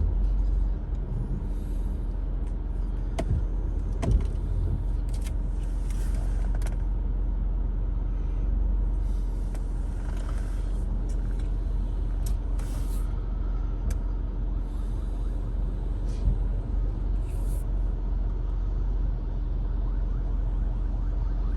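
Steady engine and road hum heard from inside a moving car, with a few short knocks about three and four seconds in and brief hissing swells as traffic passes.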